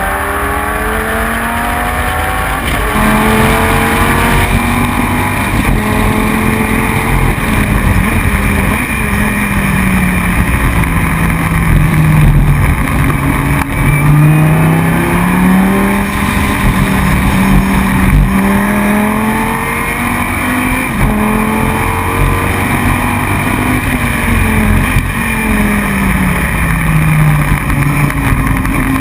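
Dodge Viper's V10 engine at racing speed, its note climbing under acceleration and dropping back again and again as it changes gear and brakes for corners.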